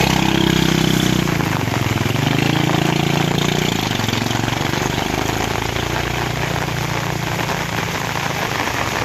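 Motorcycle engines running at low revs, their note shifting up and down as they move along.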